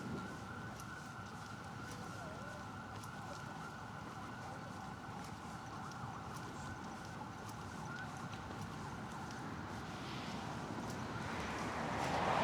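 Night city street ambience with a faint steady high tone held over low traffic hum; a vehicle approaches and passes close near the end, its rushing noise growing loud.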